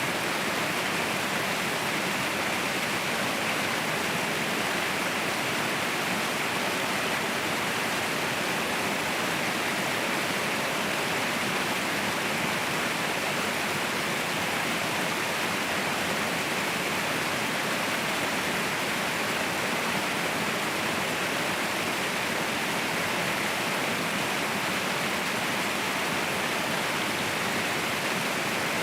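Waterfall rushing with a steady, even roar of falling water that does not change.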